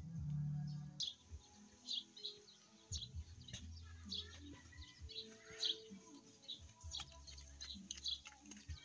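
Birds chirping over and over, short high chirps, with faint music underneath. A brief low hum opens the first second.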